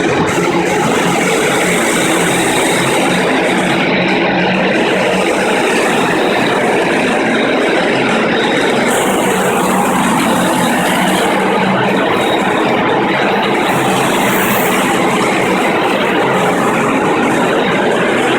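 Electric concrete floor grinder running steadily under load, its belt-driven 7.5 hp Baldor motor humming under a dense, even grinding noise as 16-grit diamond plates cut the concrete floor.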